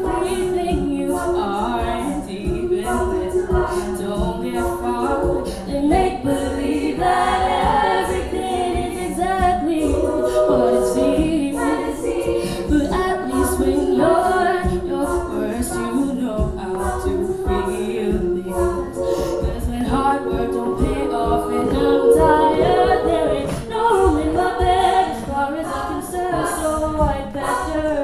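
A cappella vocal group singing in harmony, with vocal percussion keeping a steady beat underneath.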